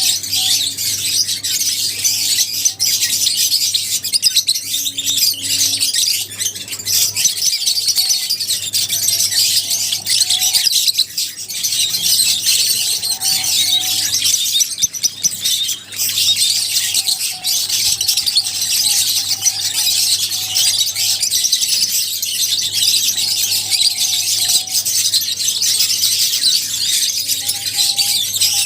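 A flock of lovebirds chirping continuously in a dense, shrill chorus of overlapping high calls.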